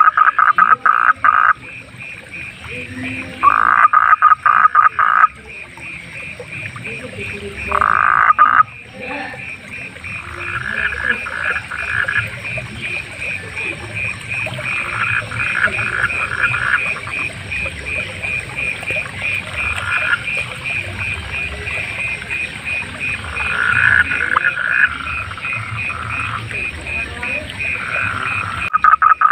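Frogs calling in a night chorus. Three loud bursts of rapid, rattling croaks come in the first nine seconds, then a steady fast-pulsing trill carries on with shorter croaks breaking in every few seconds.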